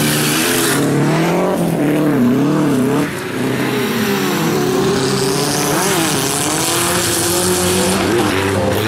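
Racing VW Beetles' air-cooled flat-four engines revving hard, their pitch rising and falling with throttle and gear changes, with two cars sometimes heard at once.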